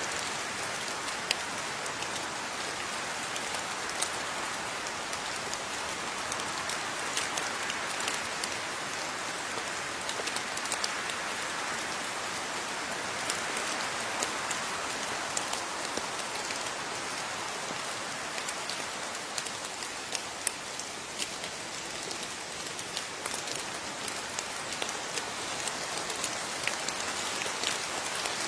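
Steady rain falling, an even hiss with many separate drops pattering and a few louder drop hits.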